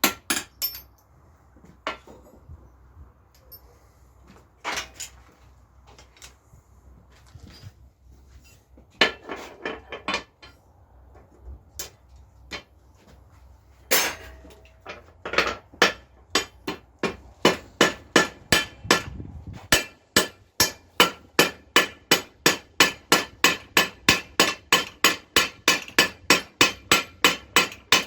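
Hand hammer striking hot iron on an anvil while forging a nail: a few scattered blows at first, then a steady run of ringing strikes, about three a second, through the second half.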